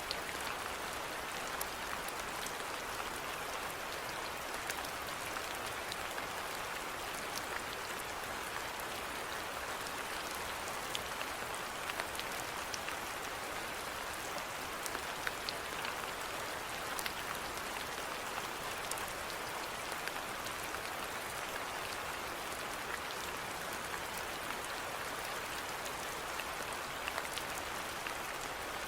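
Steady rainfall with many scattered individual raindrops ticking on a surface.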